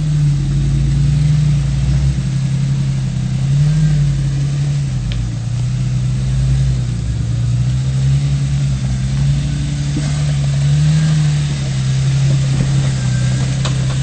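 Off-road 4x4's engine running at low revs while crawling, its pitch steady with small rises and falls as the throttle is worked.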